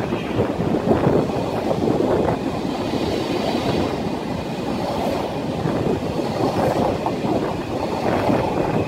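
PKP Intercity ED160 (Stadler FLIRT) electric multiple unit rolling out past the platform, a steady rumble of wheels on rail as its last cars go by.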